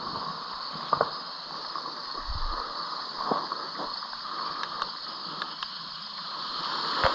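Steady hiss of heavy rain and floodwater, with a few sharp knocks, the loudest near the end.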